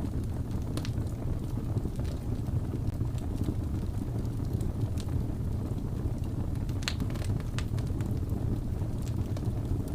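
Wood fire crackling in a fireplace, with sharp scattered pops (a cluster of them about seven seconds in), over a steady low howl of blizzard wind.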